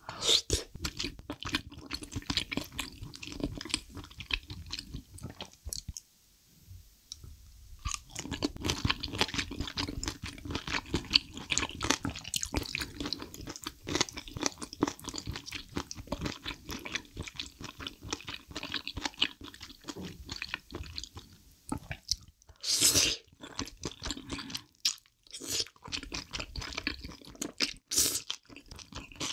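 Close-miked eating: wet, clicky chewing of spicy soupy chicken feet, thick glass noodles and quail eggs. It eases off for a couple of seconds about six seconds in, and there are a few louder bursts near the end.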